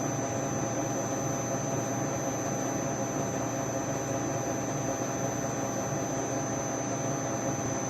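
Steady background hum and hiss of shop room tone, with a constant faint high whine and no distinct events.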